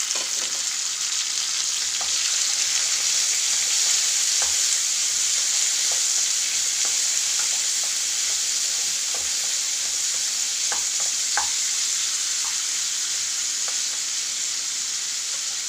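Chopped tomatoes and sliced onions sizzling steadily in hot oil in a kadai, with a spatula stirring through them and now and then clicking against the pan.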